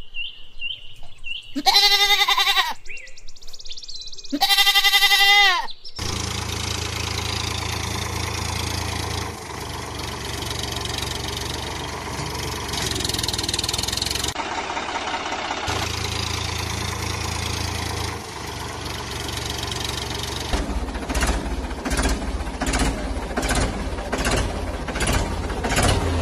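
Cartoon sound effects: two goat-like bleats in the first six seconds, then a vehicle engine running steadily for about fourteen seconds, followed by a rhythmic knocking of about two strokes a second.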